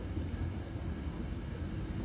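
Hankyu Kyoto Line commuter train running, heard from inside the car beside a closed door: a steady low rumble.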